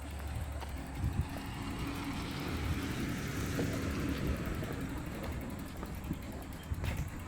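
A car passing on the road: engine and tyre noise that swells to a peak around the middle and fades away again.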